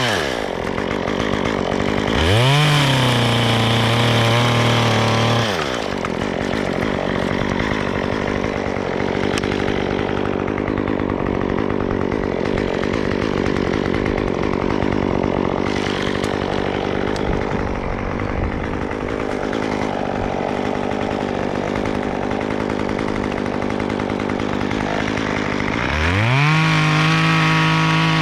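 Two-stroke chainsaw revved up to full throttle in two bursts, one of about three seconds near the start and one of about two seconds near the end. In the first burst the pitch sags a little after the rise, as when the saw bites into wood. In between, the saw drones steadily at a lower level.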